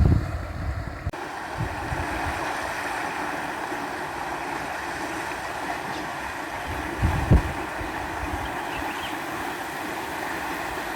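Steady rushing of a stream's running water, with a few low thumps of wind on the microphone, the strongest about seven seconds in.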